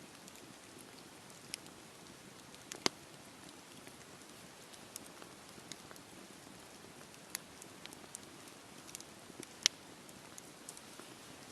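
Wood fire burning in a fireplace: a soft steady hiss with scattered, irregular sharp crackles and pops. One louder pop comes about three seconds in, and the loudest about two seconds before the end.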